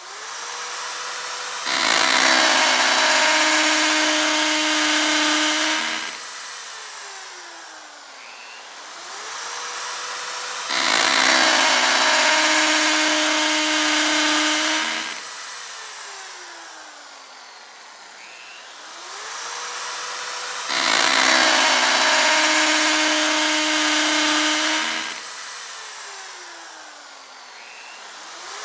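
Electric power drill revving up, then boring under load for about four seconds, its pitch dropping as it works, then spinning down. The cycle repeats three times, about nine seconds apart.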